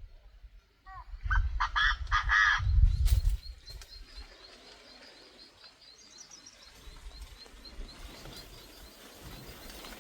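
A quick run of about five short duck calls between one and three seconds in, over a low rumble. After them comes a faint, regular high chirping that carries on for several seconds.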